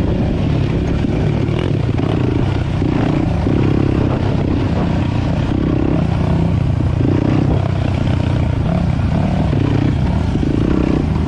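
Four-stroke dirt bike engines running along a trail, the throttle rising and falling in repeated swells.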